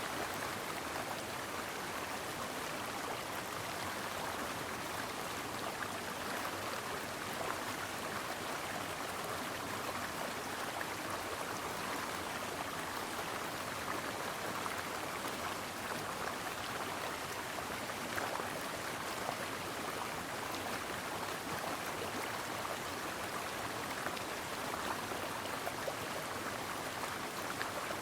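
A brook's water running and babbling over rocks, a steady rushing hiss without pause.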